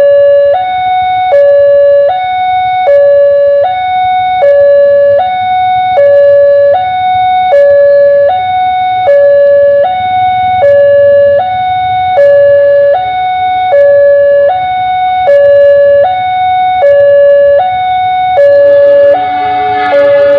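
Electronic level-crossing warning alarm sounding two alternating tones, switching between a lower and a higher pitch a little more often than once a second. Near the end a second, more complex set of tones joins in.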